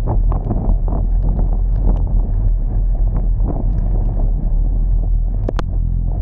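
Steady low rumble of a vehicle driving in heavy rain, with wind buffeting the microphone and scattered small taps. One sharp click about five and a half seconds in.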